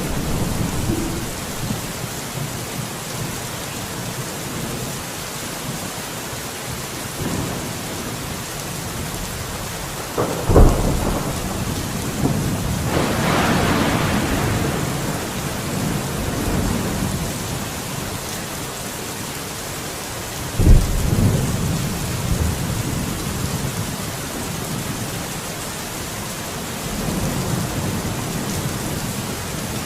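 Steady rain during a thunderstorm. Two sharp thunderclaps come about a third and two-thirds of the way through, with a long rolling rumble of thunder between them.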